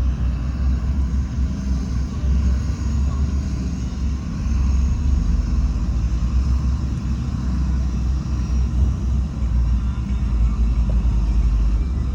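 Heavy diesel earthmoving machinery running steadily: a continuous deep engine rumble with no clear breaks or impacts.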